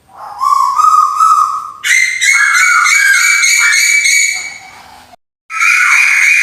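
Recorded lure call of the tuwu bird, played loud: a run of whistled notes, some rising and some falling, with a short break about five seconds in before the calling resumes.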